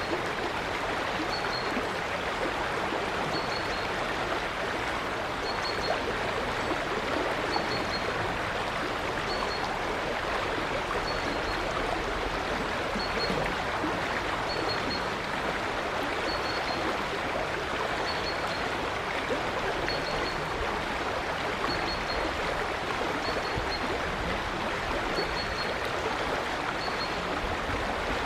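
River water flowing steadily, with a small bird repeating a short, high chirp about every two seconds.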